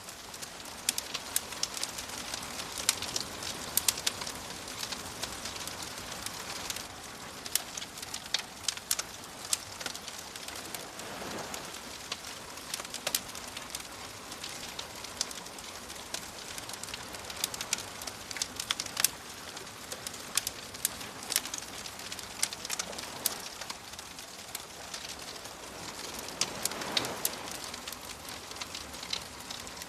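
Wood fire crackling with frequent sharp pops over a steady hiss, while gentle waves wash in softly, swelling about a third of the way in and again near the end.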